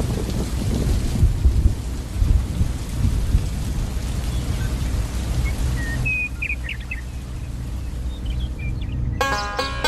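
A steady deep rumble with a hiss over it, like thunder with rain. A few short high chirps come about six seconds in. Near the end a pitched, musical sound begins.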